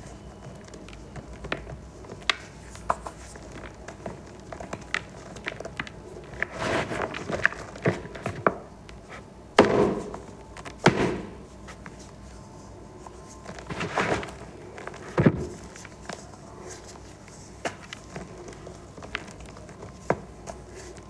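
Green-dyed reformed gym chalk balls being crushed: a scatter of small crackles and ticks, with several louder crunches in the middle of the stretch.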